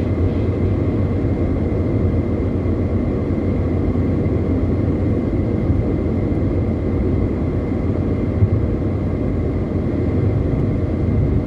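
Steady road and engine rumble of a car driving along a highway, heard as a continuous low drone.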